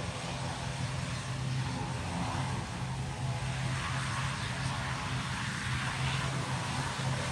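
ATR 72 turboprop's engines and propellers running with a steady low hum, rising slightly near the end.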